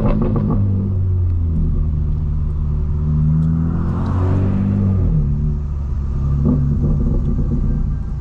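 A tuned BMW M4 Competition's twin-turbo inline-six, fitted with a catted mid-pipe and stock cat-back exhaust, running at low speed with a steady exhaust drone. It gives a couple of sharp cracks near the start, and the note drops about five seconds in as the throttle eases.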